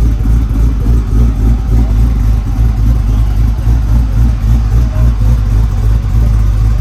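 A freshly built 408 cubic-inch LS stroker V8 with a stage 3 cam, idling loud with a choppy, lopey pulse on its first start-up.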